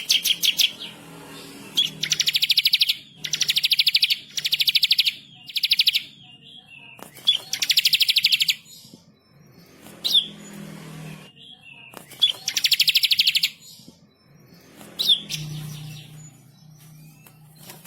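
Bar-winged prinia (ciblek) singing: a rapid high trill about a second long, repeated every one to two seconds, several of them opened by a single sharp rising chirp.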